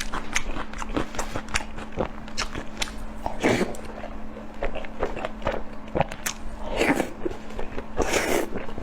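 A person biting and chewing food, with many sharp crunchy clicks and a few longer crackly bites, over a steady low hum.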